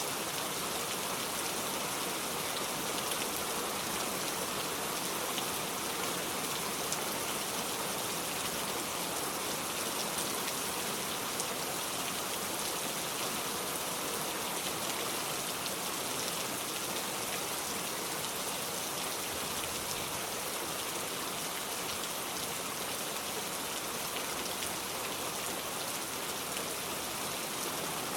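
Steady rainfall, an even hiss of falling rain with fine patter of drops on a surface.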